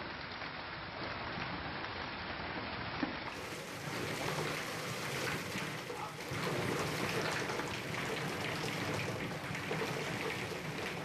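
Hailstorm: hail and heavy rain pelting down in a dense, steady hiss, peppered with sharp hits of hailstones. It grows somewhat louder and fuller about three to four seconds in.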